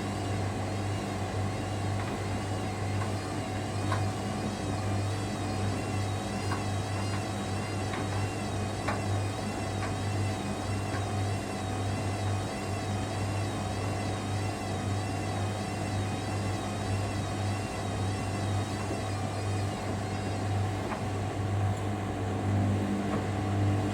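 Hoover Dynamic Next washer-dryer on its final spin, the drum turning at a steady intermediate speed: a constant low hum with a high motor whine that wavers up and down about once a second.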